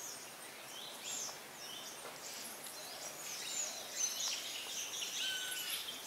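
Several wild birds calling at once in forest: many short, high chirps and whistles overlapping, with one held whistled note about five seconds in.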